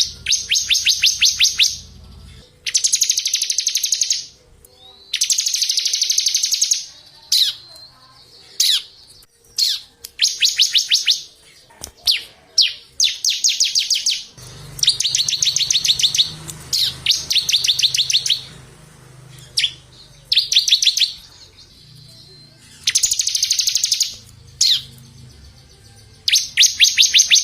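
Small songbird singing: bursts of very rapid, high trills a second or two long, about ten of them, with single sharp downward-sliding notes between.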